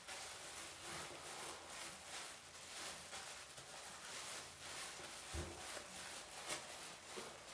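Faint, repeated rubbing strokes of hands working hair dye through hair, with a soft low bump about five seconds in.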